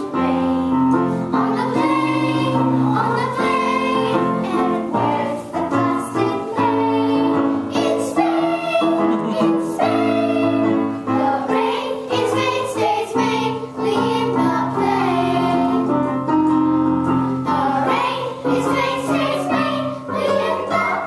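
Show-tune music with several voices singing together over instrumental accompaniment.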